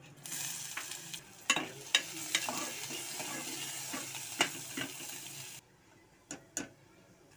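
Chopped onions and cumin seeds sizzling in hot oil in an aluminium pressure cooker, while a steel ladle stirs and clinks against the pot. The sizzle cuts off suddenly about five and a half seconds in, followed by two knocks.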